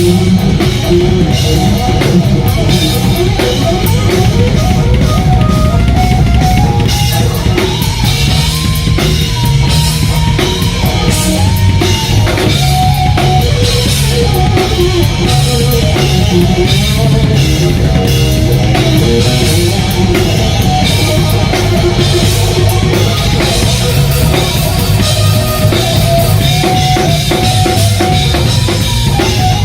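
Live hard rock band playing: an electric guitar lead line over drum kit and bass, with no singing.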